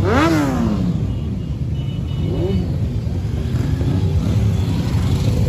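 Motorcycle engines idling with a steady low rumble. One engine's revs fall back in the first second, and a short rev blip rises and falls about two and a half seconds in.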